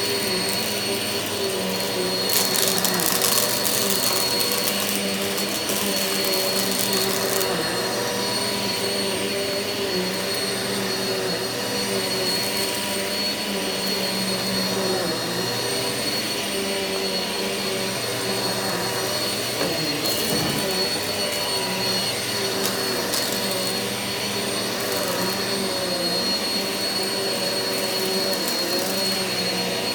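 Eureka vacuum cleaner running steadily over carpet, a constant motor whine over an even rush of air. From about two to seven seconds in, a brighter crackly hiss joins it, and it comes back briefly twice near the end.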